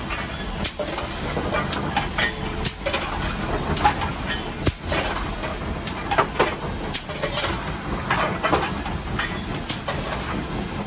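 Nevada Northern No. 81 steam locomotive heard from inside its cab: a steady hiss of steam over the rumble of the moving engine, with irregular sharp clanks and knocks.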